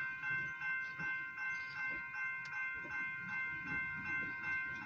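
Railroad grade-crossing warning bell ringing steadily, about two strokes a second after the train has cleared, then shutting off right at the end.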